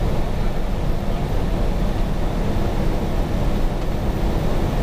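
Fire engine's Cummins 6CTA 8.3 turbodiesel (1993 KME Renegade) running steadily under way, heard from inside the cab as a loud, even low rumble mixed with road noise.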